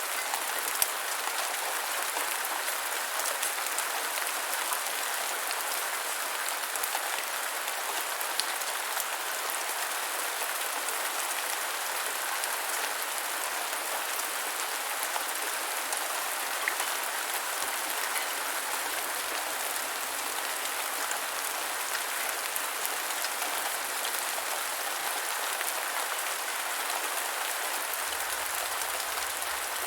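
Gentle rain falling steadily, a dense patter of drops with a few sharper individual drop ticks.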